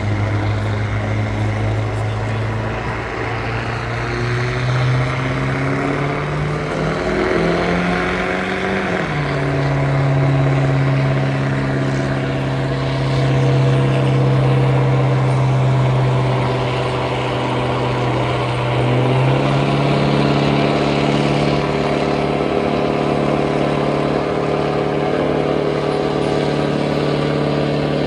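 Stock diesel pickup truck engine running hard under load on a sled pull. Its pitch climbs over the first nine seconds, then holds steady at high revs, dipping slightly about 19 seconds in, over a broad rushing hiss.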